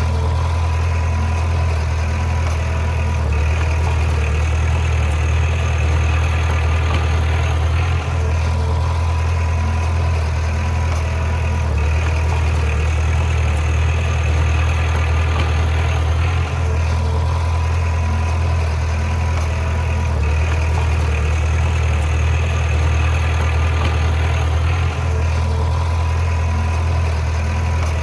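Heavy diesel engine of a bulldozer running steadily with a strong low drone, dipping briefly about every eight seconds.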